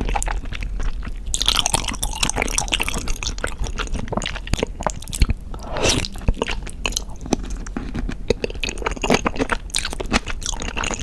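Close-miked chewing and biting of cooked beef feet, a dense run of short irregular clicks and smacks.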